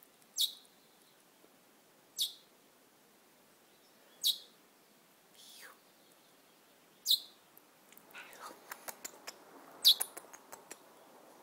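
Small wild bird chirping: sharp, high single chirps, each a quick downward sweep, about every two seconds. Over the last few seconds they are mixed with a rapid run of short, softer ticks.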